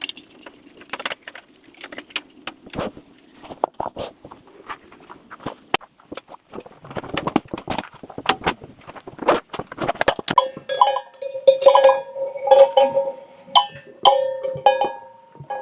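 A run of sharp clinks and knocks of hard objects. From about ten seconds in, a ringing metallic tone holds under more clinking.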